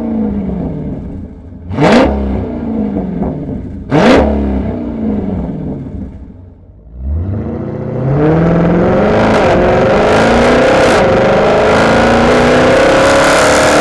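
Dodge Challenger V8 through a straight-pipe exhaust with the muffler replaced by a delete pipe, revved: three quick throttle blips about two seconds apart, each falling back. About seven seconds in, the engine revs up again and is held at high revs for several seconds.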